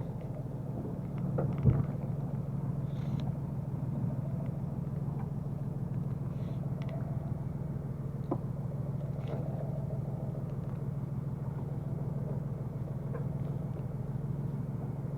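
Fishing boat's engine running with a steady low hum, with a short knock about two seconds in.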